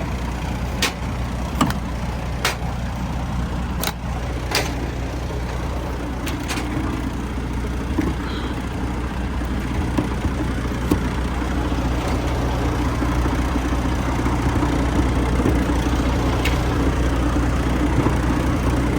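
Semi truck's diesel engine idling steadily, with a series of sharp metallic clicks and knocks over the first several seconds and a few fainter ones later.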